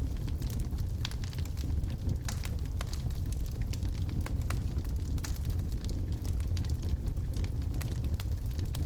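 Logs burning in a fireplace: a steady crackle of frequent, irregular sharp pops and snaps over a low, even rumble.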